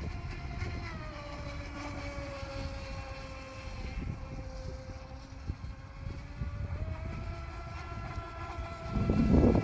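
The brushless electric motor of an RC model motor yacht whines steadily as the boat runs. The pitch sags slightly, then steps up about seven seconds in as the throttle opens. A low wind rumble on the microphone swells near the end.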